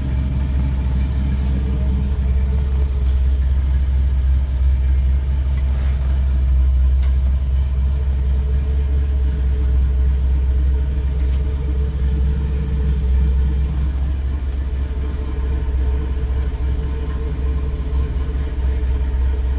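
Ford 302 V8 crate engine idling steadily: an even low rumble with no revving.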